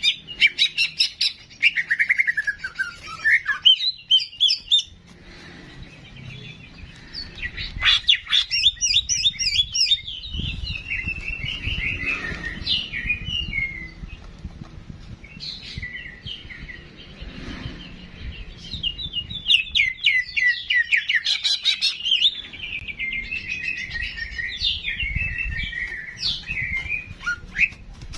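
Ki jenggot songbird singing: phrases of rapid chirping, twittering and whistled notes, each lasting a few seconds, with short pauses between them, over a faint low rumble.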